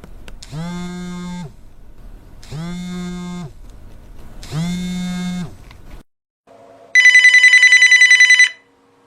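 Three identical buzzy electronic ring tones, each about a second long and two seconds apart. After a brief gap comes one loud burst of a bell telephone ringing, its bell clattering rapidly for about a second and a half.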